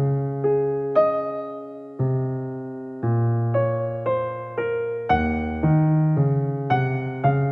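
Background music: a slow electric piano melody over held chords, a new note struck about every half second to a second, each fading away.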